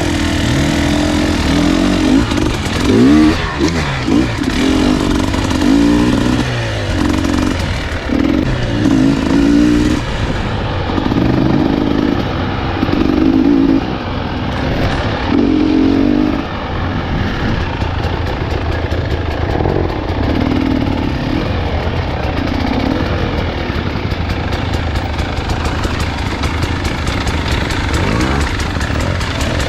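Dirt bike engine on a trail ride, revving up and down in repeated throttle surges, then running steadier in the second half.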